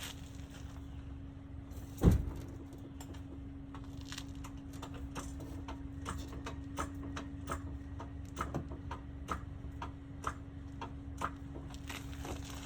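Hand tools knocking and clicking against car parts: one heavy knock about two seconds in, then scattered light metallic clicks and taps over a steady low hum.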